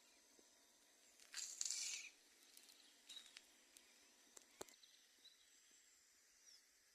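Faint dawn chorus of birds calling and insects droning high, with a short harsh, noisy call or burst about a second in and a few scattered sharp clicks.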